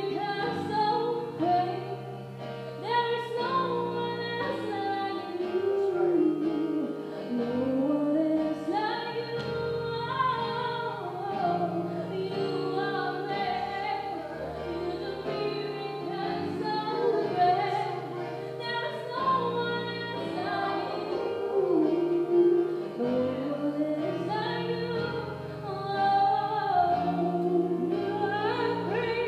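Gospel choir singing with a female voice leading, over a steady instrumental accompaniment, the voices gliding and held in long phrases.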